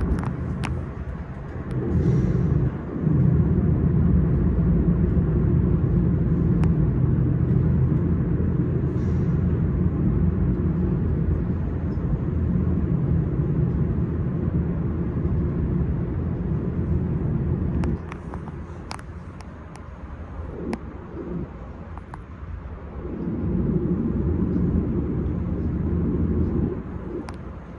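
S-Bahn electric train running: a steady low rumble of the train and its wheels on the track, with scattered clicks. The rumble drops quieter for a few seconds past the middle, then picks up again.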